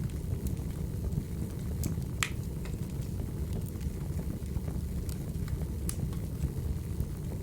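Wood fire burning: a steady low rumble with irregular sharp crackles and pops, one louder pop about two seconds in.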